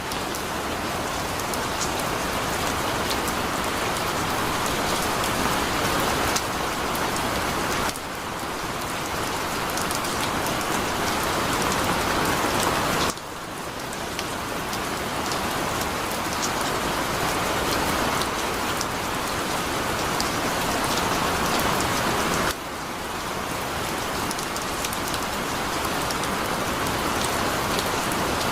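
Heavy rain pouring down in a dense, even hiss of drops. The level dips suddenly and swells back several times.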